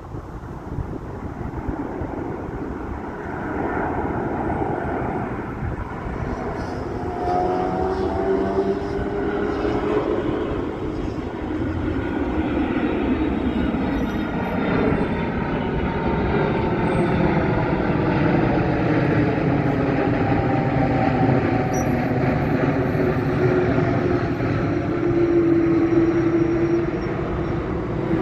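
Jet engine noise of an arriving Boeing 747-400, four turbofans passing by. A broad rushing drone builds gradually, with faint tones sliding slowly in pitch through it.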